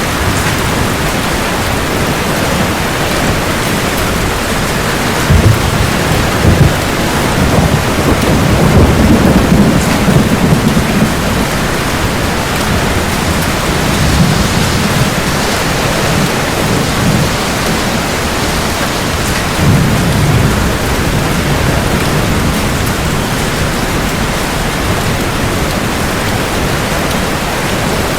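Steady heavy rain with thunder rumbling low several times, in swells that come and go, the longest in the first half.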